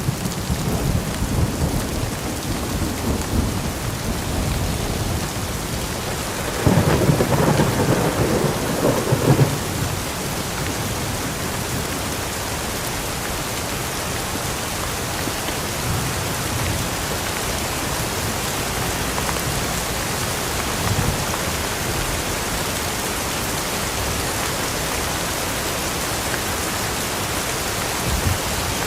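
Steady rain falling, with thunder rumbling. A louder roll of thunder comes about seven seconds in and lasts a couple of seconds.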